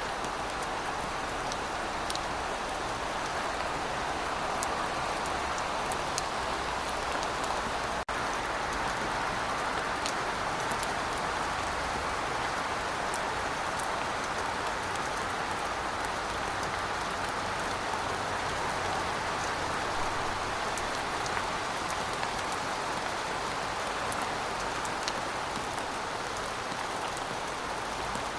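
Steady rain falling: an even hiss with scattered sharp ticks of single drops striking a surface, and a split-second dropout about eight seconds in.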